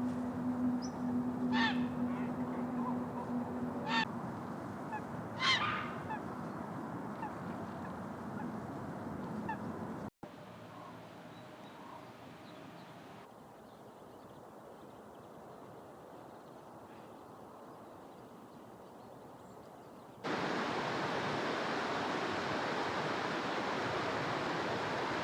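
A few short, harsh bird calls, three in the first six seconds, over steady outdoor background noise. After that comes quieter ambience, and a louder, even noise from about twenty seconds in.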